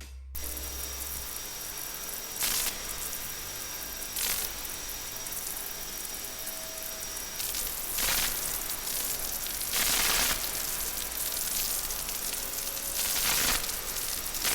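Hissing, spray-like noise over a few faint held tones, surging and fading every two to four seconds: a noise-textured ambient passage in an electronic music mix.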